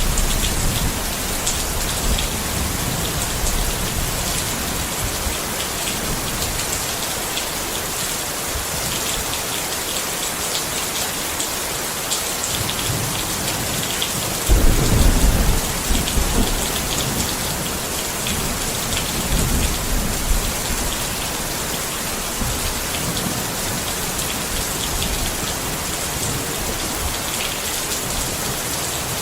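Steady rain falling on a tent, with a constant hiss and many small drop ticks. About halfway through, a low rumble swells for a couple of seconds.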